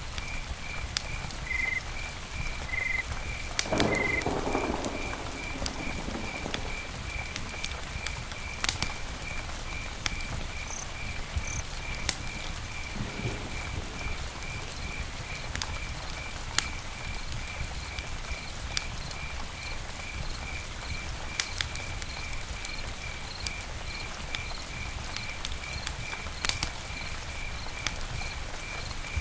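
Campfire crackling, with scattered sharp pops over a low steady rumble and a brief louder flare about four seconds in. A high animal chirp repeats about twice a second throughout.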